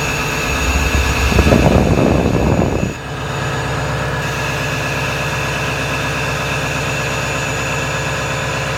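Ford 6.0 Powerstroke V8 turbo-diesel running at high idle after a cold start, with a faint steady turbo whistle over it. Near the start a louder rush of noise lasts about two seconds and cuts off suddenly, then the engine runs on steadily.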